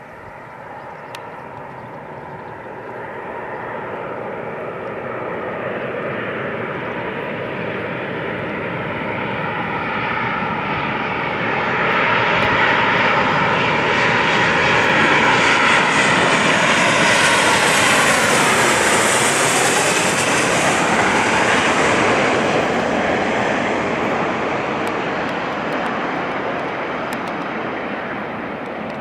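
Boeing 737-800 airliner with twin CFM56 turbofan engines flying past on its landing approach. The jet noise swells to a peak about eighteen seconds in, the engine whine drops in pitch as the plane passes, and then it fades away.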